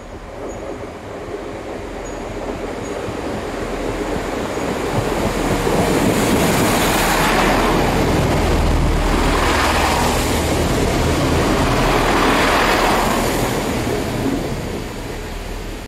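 Class 165 diesel multiple unit passing close by, its wheels and running gear making a broad rumble with a low steady hum underneath. The sound builds as the train approaches, is loudest for several seconds as the coaches go past, eases near the end and then cuts off suddenly.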